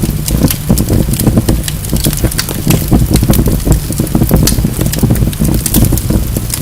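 Wood fire burning in a fireplace: a steady low roar of flames with frequent sharp crackles and pops from the logs.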